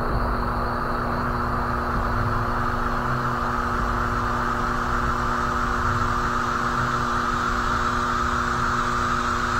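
A steady drone: a low rumble under a constant hum, with a hiss on top.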